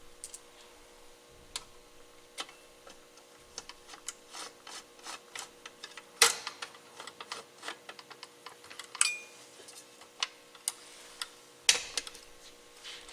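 Irregular light clicks and taps of small parts and hardware being handled on a workbench, with a few louder clacks about six, nine and twelve seconds in; the one near nine seconds rings briefly.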